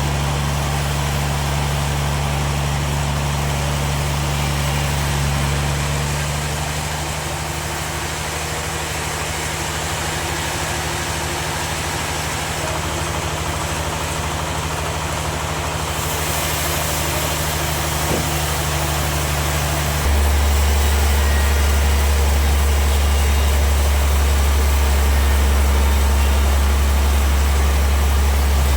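Sawmill machinery running: a steady low engine drone over a constant hiss. About twenty seconds in, the drone steps up louder and deeper.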